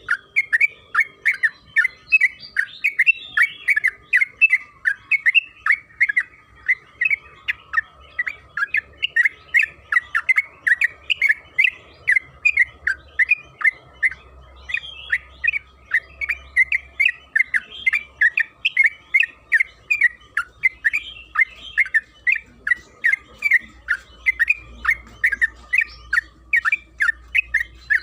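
Yellow-vented bulbul (trucukan) singing a long, unbroken run of short, sharp chattering notes, about three a second, with a faint steady high hum underneath.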